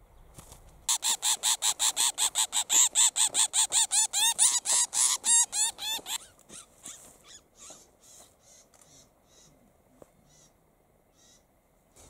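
Small bird caught in a mist net giving a rapid series of loud calls, about five a second, starting about a second in and lasting some five seconds, then trailing off into sparser, fainter calls.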